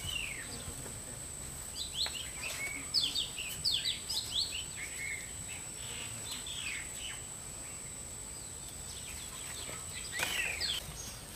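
Small birds chirping: short, quick, downward-sliding calls in clusters, busiest a couple of seconds in and again near the end, over a steady outdoor hiss and a constant thin high tone.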